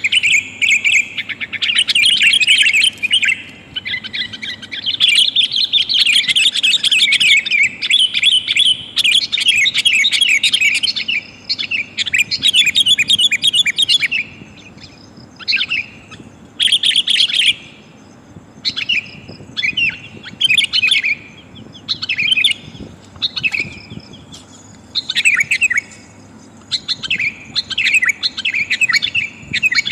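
Sooty-headed bulbul (kutilang) giving rapid, chattering calls. They run almost unbroken at first, then come in short bursts with brief pauses from about halfway on. This is a trapping lure call, which the uploader presents as a female calling males.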